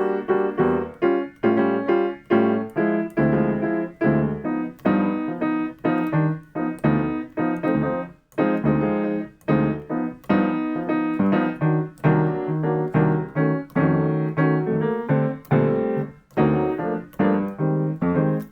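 Piano playing short, detached jazz comping chords in a repeating rhythm pattern, about two chord stabs a second. The playing cuts off at the very end.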